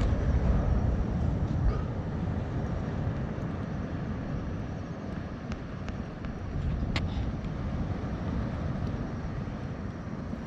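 Campfire burning: a steady low rumble with a few scattered pops and crackles, the clearest about seven seconds in.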